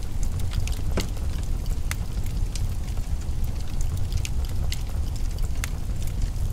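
Wood fire crackling in a fireplace: irregular sharp pops and snaps, a stronger one about a second in, over a steady low rumble.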